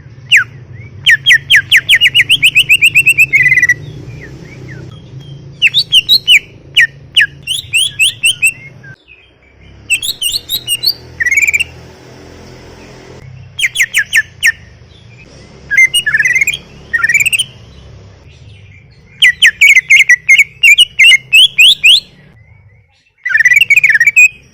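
Cucak ijo (greater green leafbird) singing loudly in about seven fast phrases of rapid chirps, trills and sliding whistles, with short pauses between them, over a faint low hum.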